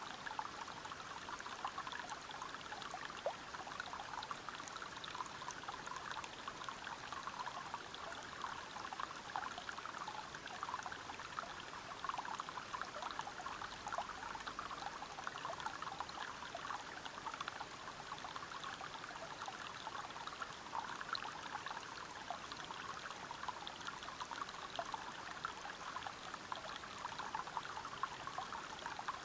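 River water pouring and splashing over rocks in a steady, unbroken rush, a dense patter of small splashes with no change in flow.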